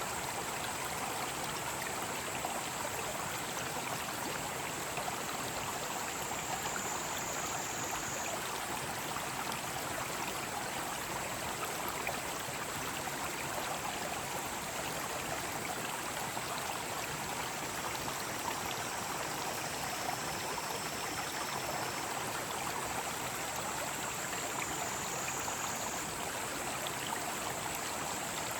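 Mountain stream rushing steadily over rocks, with a steady high drone of cicadas in the trees above it. The cicada tone shifts slightly about six seconds in and again near the end.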